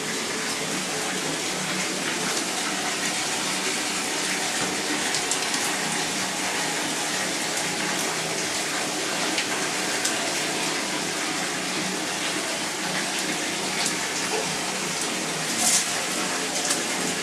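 Steady rush of spring water falling and splashing at a waterfall, with a brief louder hiss near the end.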